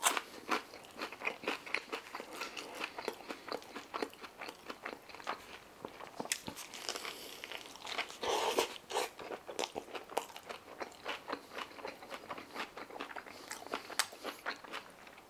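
Close-miked eating: a person chewing French fries with many short crunching and wet mouth clicks. About eight seconds in comes a louder bite into a shawarma wrap, then more chewing.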